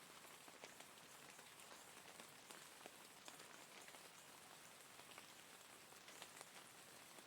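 Steady rain, faint: a dense even patter with many small, sharp drop hits scattered through it.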